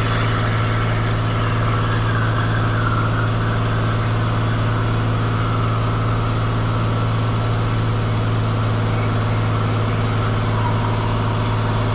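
Cessna 182 Skylane's piston engine and propeller running steadily in flight, heard from inside the cabin as a constant low hum.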